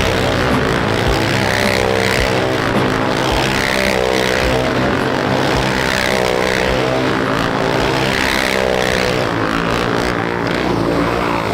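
Motorcycle engine running steadily, its pitch rising and falling slightly.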